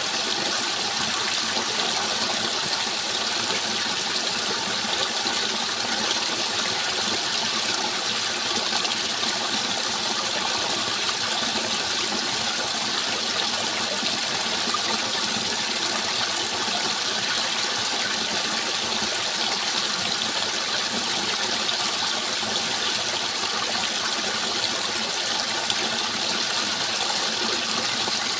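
Water rushing steadily as a continuous, even noise, strongest in the upper range, with no breaks or separate events.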